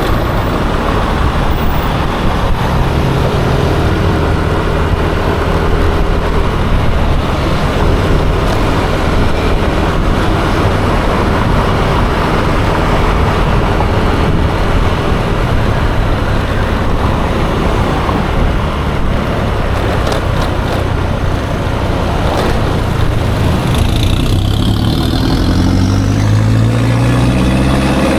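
Riding noise from a moving scooter in city traffic: a steady rush of wind and road noise. In the last few seconds an engine rises in pitch as it accelerates.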